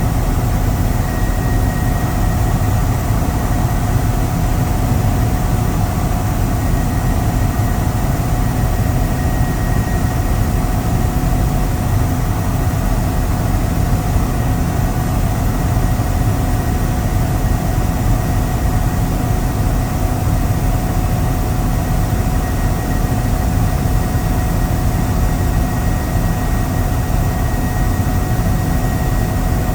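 Helicopter engine and rotor noise heard from inside the cabin, running loud and steady with a deep drone and a few faint steady tones.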